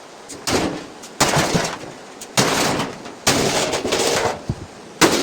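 A wrecked washing machine's broken metal and plastic parts banging and clattering, about five loud crashes in a row, each ringing out for under a second.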